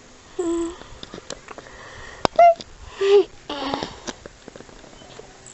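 A woman's short wordless vocal sounds, a few hums and coos, some gliding in pitch, with breathy sniffing noise between them close to the microphone.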